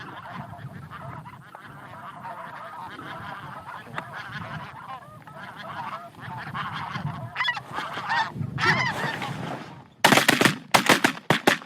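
Steady, excited waterfowl honking and calling, many goose-like honks overlapping. Near the end it is cut across by a quick volley of about five shotgun blasts fired within a second and a half.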